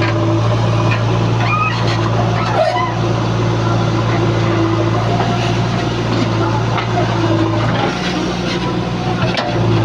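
Heavy diesel engine running steadily with an even low hum, its note shifting briefly near the end.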